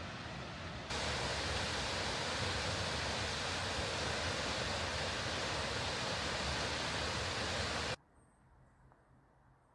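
Steady rushing hiss of a waterfall (South Falls), stepping up louder about a second in. Near the end it cuts off abruptly to a faint, quiet background.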